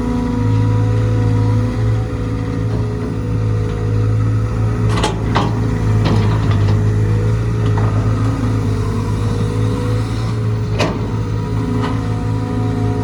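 Caterpillar C4.4 four-cylinder diesel engine of a CAT 320GC excavator running at a steady speed, with a few sharp clicks about five to six seconds in and another near eleven seconds.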